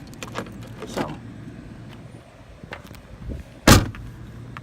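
A car door slammed shut with one loud thud, about three-quarters of the way through, after a few lighter clicks and knocks of handling at the car.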